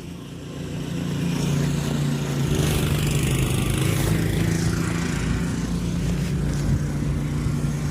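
Snowblower's small petrol engine running steadily, growing louder over the first couple of seconds and then holding at a constant pitch.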